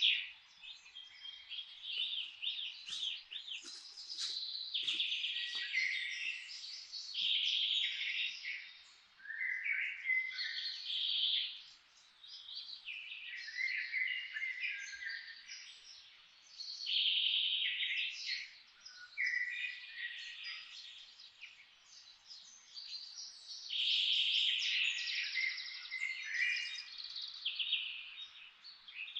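Songbirds singing in a forest, several birds trading phrases of a second or two every few seconds, over a faint steady hiss of background noise.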